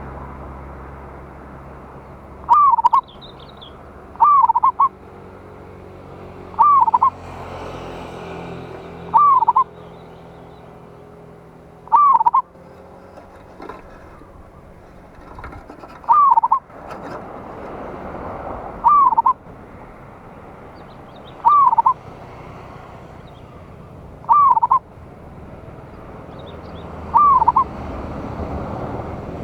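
Zebra dove (perkutut) cooing: short, loud, bending call phrases repeated about every two and a half seconds.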